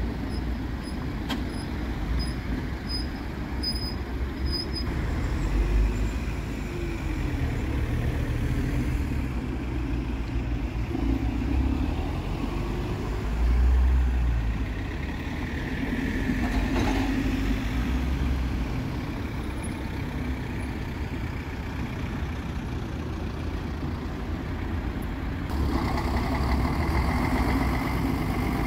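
Road traffic: cars and trucks driving past, their engines and tyres making a continuous rumble, with louder swells as vehicles go by.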